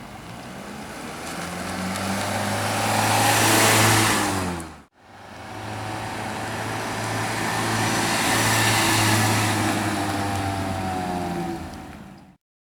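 Toyota 1ZZ-FE 1.8 L four-cylinder engine revving up and easing back down, twice, with a sudden break between the two. A high-pitched whine rises and falls with engine speed. It appeared after a clutch replacement and is not from the accessory belt drive.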